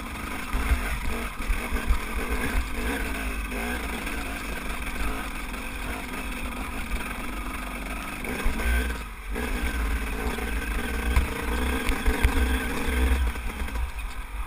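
Enduro dirt bike engine running on and off the throttle over a rough, rocky trail, its pitch rising and falling, with heavy wind rumble on the microphone. The engine note drops out briefly about nine seconds in.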